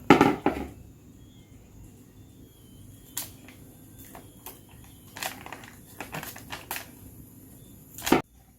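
Handling of a packet of pizza crust on a kitchen counter: a sharp knock right at the start, then scattered light clicks and taps, with a louder one near the end.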